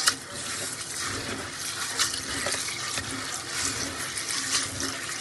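Water running steadily from a kitchen tap into a sink, with a few light knocks of something handled in the sink.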